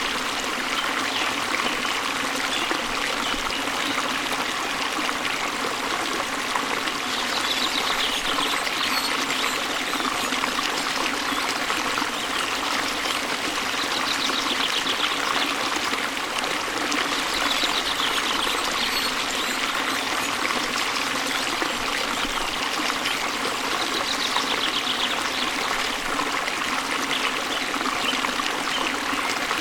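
Steady rush of water from a waterfall flowing into a stream. A bird gives a short, rapid high trill four times over it.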